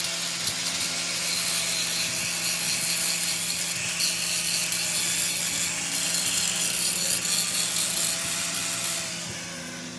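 Power tool running steadily, with a high hissing edge over a low hum, fading away about nine seconds in.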